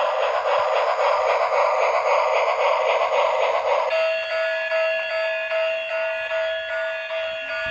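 Electronic sound effects from a battery-operated toy vehicle: a fast-pulsing buzzy whirr, then about four seconds in it switches to a steady electronic alarm-like tone.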